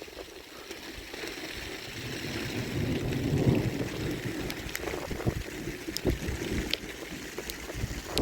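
Heavy rain with wind, swelling about three seconds in, with scattered sharp taps.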